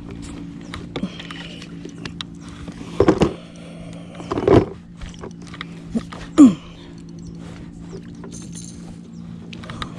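Fishing reel being cranked as a hooked bass is reeled in. There are light mechanical clicks and a steady low hum throughout, and a few louder knocks about three, four and a half and six and a half seconds in.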